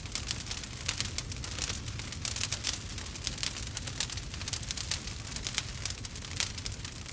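Wood campfire crackling steadily, with many sharp pops and snaps over a low rumble of the flames.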